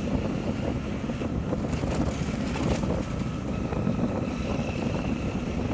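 Wind buffeting the microphone on a moving motorcycle, a dense steady rumble with engine and road noise underneath. A faint thin whine comes in about three and a half seconds in.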